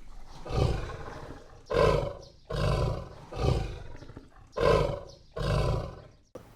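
A big cat giving a series of six rough, deep roaring calls, about one a second.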